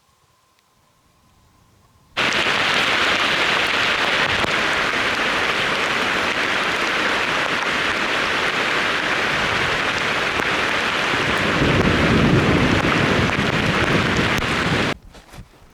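Loud, steady rushing of water, starting abruptly about two seconds in and cutting off sharply near the end, with a deeper rumble swelling for a few seconds shortly before it stops.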